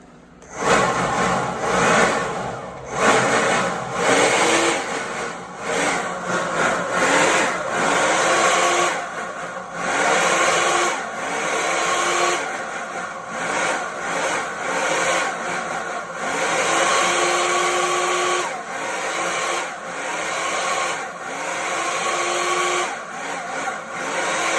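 An electric power tool's motor spinning up again and again during a dryer vent duct cleaning pass. Each run is a rising whine that levels off, over a loud rushing noise.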